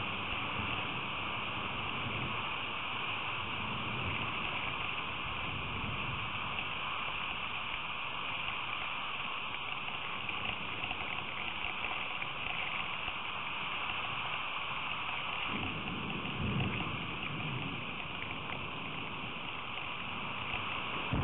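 Steady rain falling, a constant hiss on a feeder camera's small microphone, with a low rumble swelling briefly a few seconds before the end.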